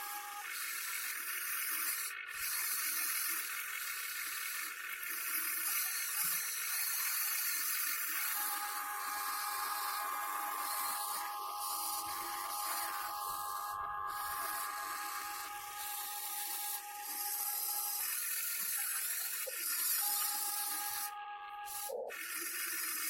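Electric motors of an Amewi/Huina 1580 v4 RC excavator whining steadily over a constant hiss. The whine shifts pitch a few times as different functions run.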